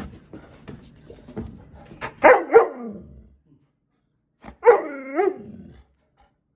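A dog barking: two quick barks a couple of seconds in, then a longer, wavering bark or two a little past the middle, after a few light clicks at the start.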